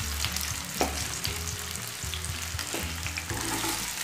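Coated soya chunks sizzling as they shallow-fry in hot oil in a non-stick kadhai, a steady hiss with scattered small crackles and one light knock about a second in.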